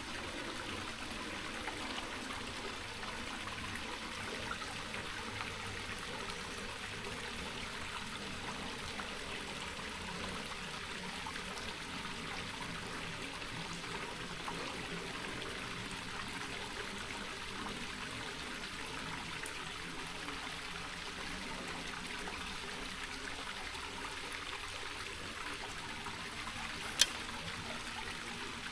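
Small mountain creek running steadily with a trickling rush of water. One sharp click sounds near the end.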